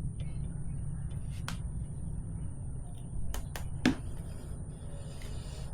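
Tire irons clicking and knocking against the wheel rim as a motorcycle tire's bead is levered on, a few sharp clicks with the loudest knock about four seconds in, over a steady low rumble.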